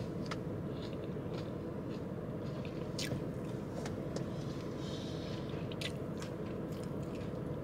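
A person biting and chewing food, with a few short crunchy clicks now and then, over a steady low background hum.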